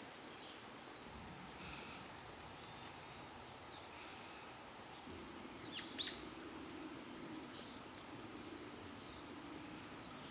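Small birds chirping in short high calls, one call louder about six seconds in, over faint outdoor background noise. A faint low steady hum joins about halfway.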